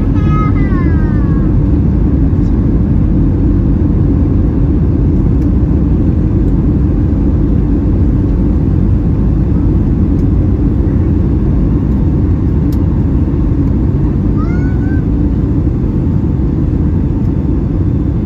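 Steady cabin noise of a Boeing 757-300 in flight: a loud, even, deep rumble. A short high-pitched cry that falls in pitch comes right at the start, and a second, rising one comes about 14 seconds in.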